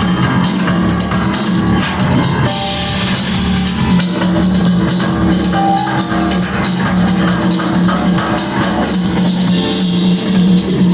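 Rock band playing live: drum kit driving a dense beat under held guitar and bass notes, loud and unbroken.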